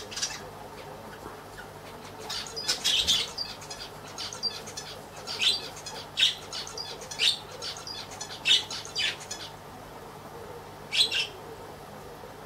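Birds chirping and squawking in short, high calls: a busy run of them from about two seconds in and another pair near the end, over a steady low hum.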